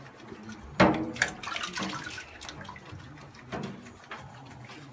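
Water splashing and sloshing around a puppy being bathed, in irregular bursts with the loudest splash about a second in.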